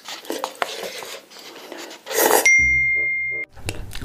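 Close-miked noodle eating with chopstick clicks and slurping, then about two seconds in a loud noisy burst followed by a bright, bell-like tone held for about a second over a soft beat: an edited sound effect at a cut between clips.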